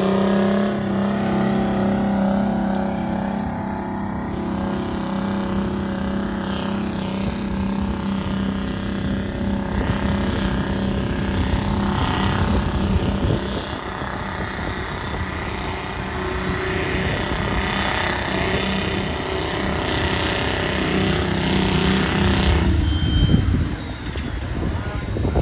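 Pulling tractor's engine running hard at steady revs under load. It eases off about halfway through, picks up again, then drops away near the end.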